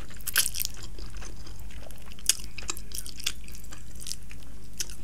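Close-miked wet chewing of spicy instant noodles, with a short slurp about half a second in and scattered mouth clicks, one sharper click about two seconds in.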